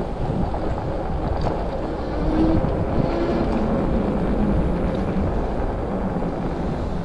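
Wind rushing over the microphone while riding an e-bike, a steady low rumble with a faint tone coming and going in the middle.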